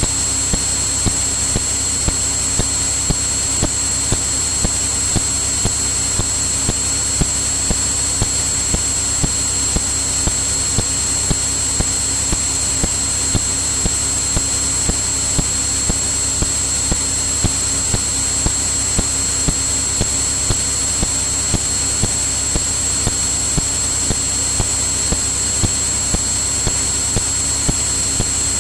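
Steady drone of a Cirrus light aircraft in cruise, heard as cabin noise through the headset/intercom recording, with a thin high steady tone over it and a faint regular tick about twice a second.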